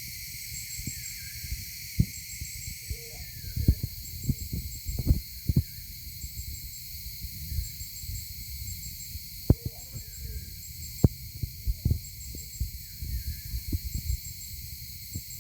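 Outdoor ambience of insects chirping in short high-pitched groups about once a second over a steady high hiss, with irregular low thumps and knocks from a handheld phone being moved.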